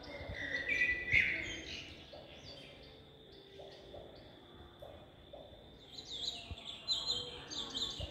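Birds chirping and calling: a loud burst of calls about a second in, and a quick run of high chirps near the end.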